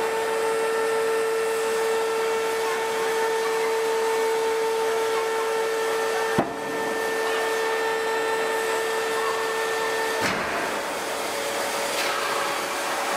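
Large hydraulic forging press working a red-hot forging: a steady whine with hiss from the press. There is a sharp click about six seconds in, and the whine changes near the ten-second mark.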